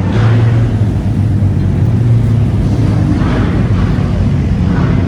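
A car engine running nearby with a loud, steady low drone, swelling briefly a couple of times.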